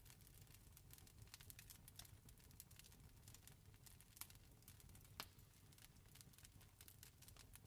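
Faint crackling of a wood fire: irregular small pops and snaps over a low, steady rumble, with a sharper snap about five seconds in.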